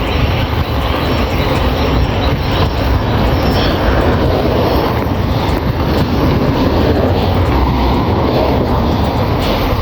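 Wind buffeting the camera's microphone while riding a bicycle: a steady, loud rush of wind noise.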